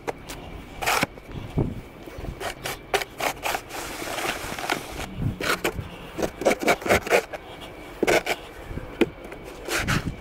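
Snow shovel scraping through snow, a string of irregular strokes.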